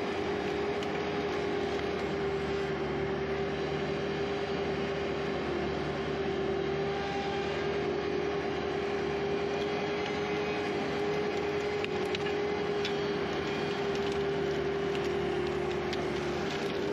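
Skid steer engine running steadily, with a constant whine held on one pitch.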